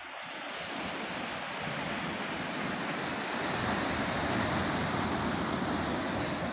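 Ocean surf: a steady rushing wash of breaking waves, swelling over the first couple of seconds and then holding.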